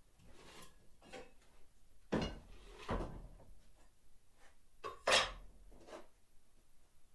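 A few knocks and clatters of parts being handled while a car trailer is taken apart, the loudest about two seconds in, just after three seconds, and about five seconds in.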